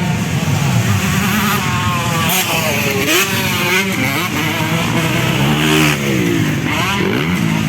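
Several 250cc motocross bikes racing, their engines revving up and dropping away as the riders accelerate and shift. One bike is loudest about six seconds in, as it passes close.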